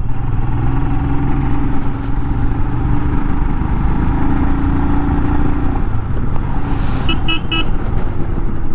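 Royal Enfield Himalayan's single-cylinder engine running steadily at cruising speed, with road and wind noise. Near the end a vehicle horn beeps three times in quick succession.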